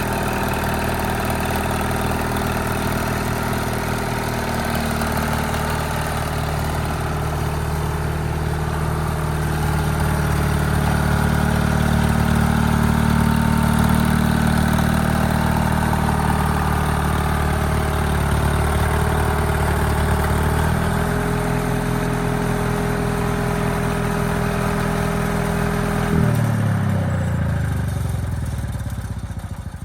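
Allis-Chalmers HD5 bulldozer's diesel engine running, its pitch and loudness shifting with load. About 26 seconds in the revs fall steadily, and the engine winds down and dies away at the end.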